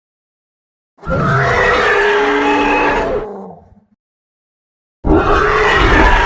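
Monster roar sound effects: a deep, pitched roar of about two and a half seconds that fades away, then after a gap a second roar begins about five seconds in.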